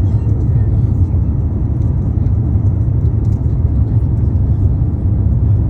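Steady low rumble of an airliner cabin during landing, with engine and airflow noise holding even throughout.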